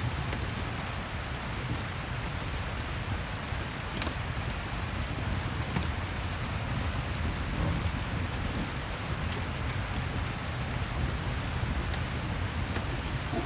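Steady rain ambience mixed with fireplace crackle, with a few sharp crackles scattered through it, the clearest about four seconds in.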